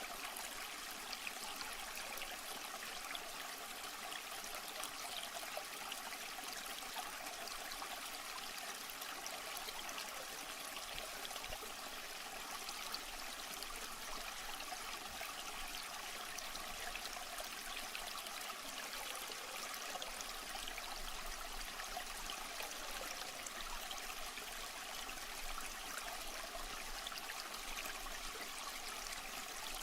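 Steady trickling, running water with a fine crackle, unbroken throughout.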